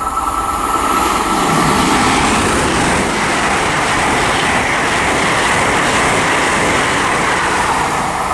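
LNER Class 801 Azuma electric express train running through the station at speed without stopping. It makes a loud, steady rush of wheel and air noise, with a steady higher tone running through it.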